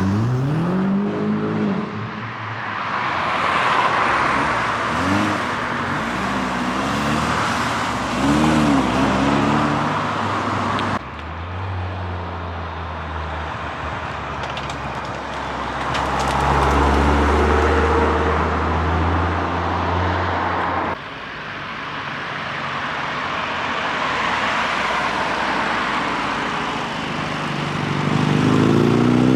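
Car engines in three edited clips. In the first, an engine is revved several times in short rising blips. In the middle clip, a car runs steadily at low revs. Near the end, another engine revs up.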